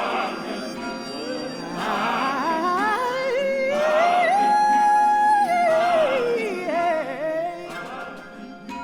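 Classical vocal music with orchestra: a solo voice sings a line that climbs to a long held high note with vibrato about halfway through, then slides back down, over the orchestra and choir.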